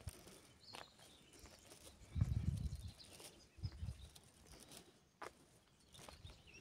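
Footsteps and rustling through garden vegetation, irregular light crunches and snaps, with a low rumble of wind or handling on the microphone about two seconds in.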